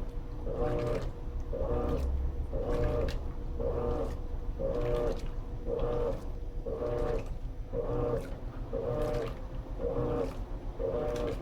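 Electrolux LT13B top-load washing machine agitating: its motor swings the agitator back and forth in regular strokes, about one a second, each stroke a short pitched whir over a steady low hum.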